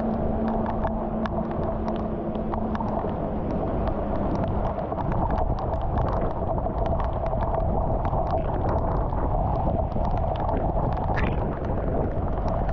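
Rain falling on a flooded concrete street: a steady hiss with many small, sharp drop splashes on the standing water.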